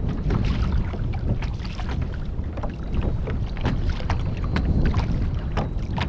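Wind buffeting the microphone and water sloshing against a moving kayak's hull, with scattered small clicks and knocks throughout.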